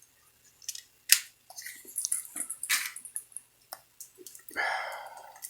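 A boxed set's plastic shrink-wrap being cut and pulled open: scattered clicks, taps and crinkles, with a longer scraping tear about five seconds in.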